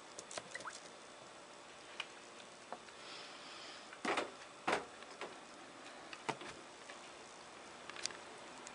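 Scattered light clicks and taps, with two louder knocks close together about four seconds in.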